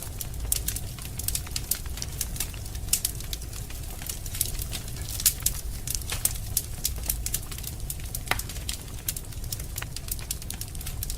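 Wood fire burning in a fireplace, crackling with many sharp pops, several a second, over a steady low rumble.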